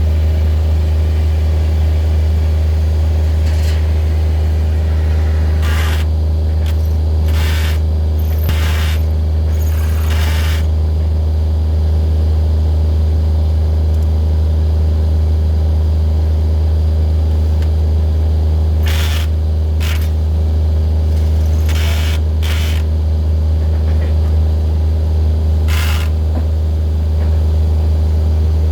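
An engine running steadily at a constant speed, a deep hum throughout. Several short, sharp knocks and scrapes cluster around the middle of the first half and again in the second half.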